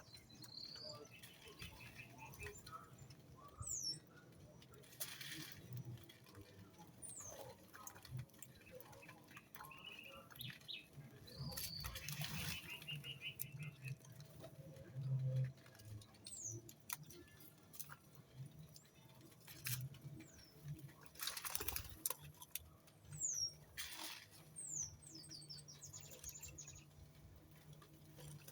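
Small birds giving scattered brief, high chirps that slide downward, among light scratching and pattering.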